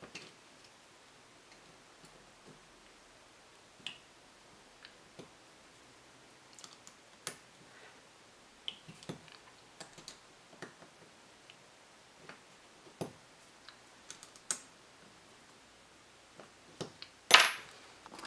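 Irregular light clicks and taps of small metal engine parts and hand tools being handled on a workbench, with one louder, longer clack near the end.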